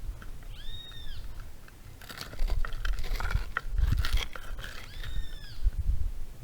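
A bird gives two short whistled calls about four seconds apart, each rising then falling in pitch. Between them comes a run of sharp crunching, scraping clicks, over a low rumble.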